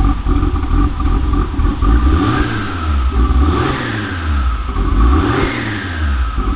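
Turbocharged VR6 engine running through a newly fitted DTM-style exhaust and revved twice. After a steady rumble, the revs climb and fall about two seconds in, then again near the five-second mark.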